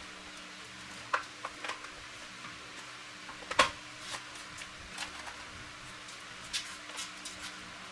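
Scattered light clicks and knocks, the loudest about three and a half seconds in, over a faint steady hum.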